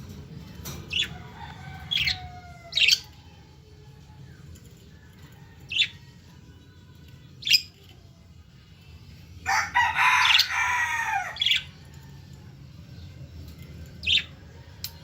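A pair of lovebirds giving short, sharp, shrill chirps every second or two, with a louder two-second burst of calls about ten seconds in.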